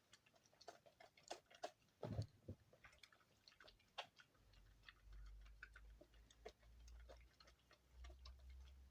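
Soap shavings and scraps giving faint, irregular crackles and clicks as they are handled and pressed together by hand, with a louder knock about two seconds in and a faint low rumble from about halfway.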